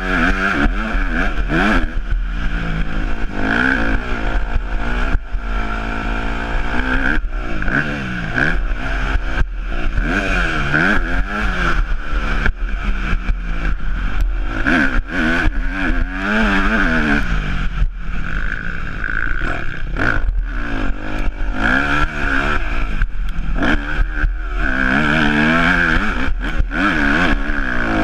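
Yamaha YZ250F motocross bike's four-stroke single-cylinder engine revving up and down over and over as it is ridden through a lap, with its pitch climbing under acceleration and dropping off between bursts. Short knocks and clatter from the bike are mixed in.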